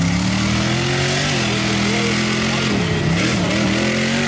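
Off-road race vehicle's engine revving hard under acceleration. Its pitch climbs, drops off briefly about three seconds in, then climbs and holds again.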